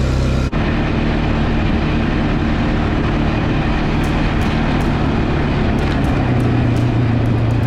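Vehicle engine running steadily while travelling over a rough trail, with scattered clicks and knocks from the ride. The sound dips and changes abruptly about half a second in.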